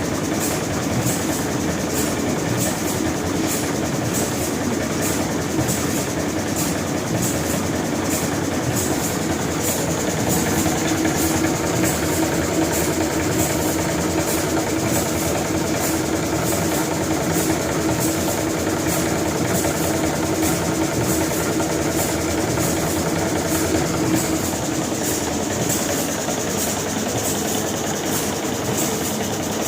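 Rope-chain washing machine running: a steady mechanical hum with a regular clatter of about two clicks a second.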